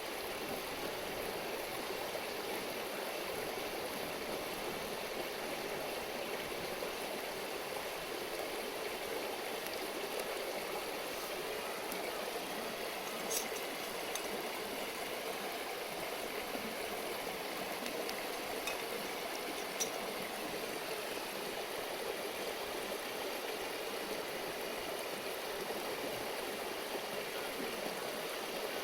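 River water running steadily over stones, a continuous babbling rush. Two brief sharp clicks stand out above it, one about halfway through and another a few seconds later.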